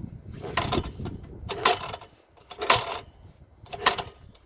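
UD-15 engine of an MTZ-05 walk-behind tractor being cranked over by pull-start, four short rasping pulls about a second apart. The engine does not catch: a winter cold start.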